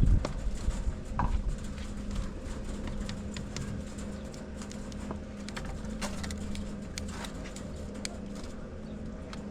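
Chickens pecking at feed: scattered, irregular light taps and clicks over a steady low hum, with a few heavier low thumps in the first second or so.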